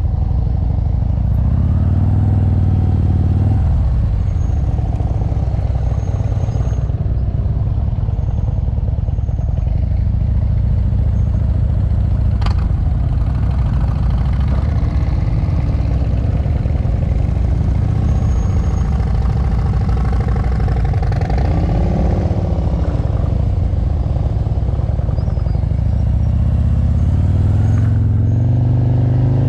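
Motorcycle engine running under way, its pitch rising and falling a few times as the throttle is opened and closed, with a single sharp click about halfway through.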